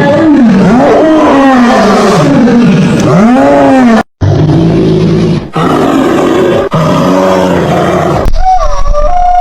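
A run of loud wild animal calls spliced from separate recordings. First come repeated calls that rise and fall in pitch. After a sudden break about four seconds in, a harsher, rougher call follows. Near the end a higher gliding, whistle-like call begins.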